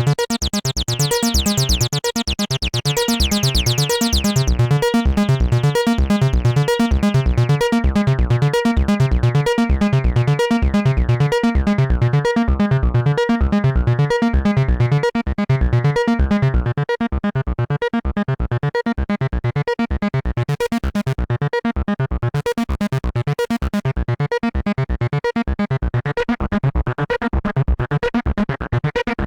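Behringer TD-3-MO bass synthesizer playing a fast, repeating step-sequenced acid bass line. The notes are brighter and buzzier for the first few seconds as the filter opens, then settle darker.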